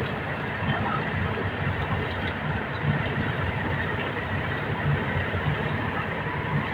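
Engine of a well-drilling rig running steadily, with a low rumble under a dense hiss.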